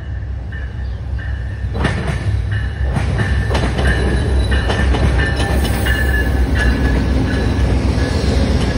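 Amtrak passenger train led by three GE P42DC diesel locomotives passing close by: a deep diesel rumble growing louder over the first few seconds as the locomotives draw near, with wheels clicking over the rail joints and a high-pitched wheel squeal coming and going.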